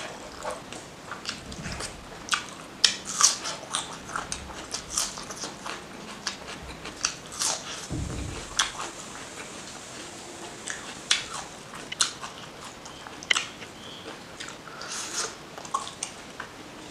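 Close-up chewing of a mouthful of mutton fat curry and rice: wet mouth smacks and clicks, irregular, sometimes several a second. There is a soft low thump about halfway through.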